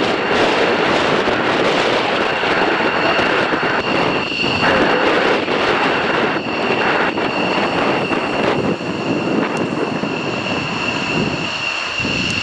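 Jet aircraft engines running steadily on the ground during taxi, a constant roar with a steady high-pitched whine over it.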